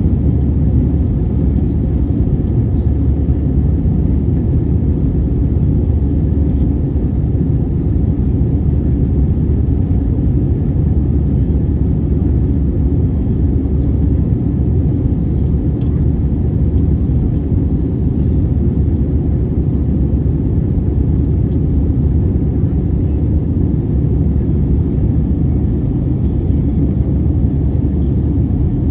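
Steady low rumble of an Airbus A320 in flight, engine and airflow noise as heard from inside the cabin after takeoff.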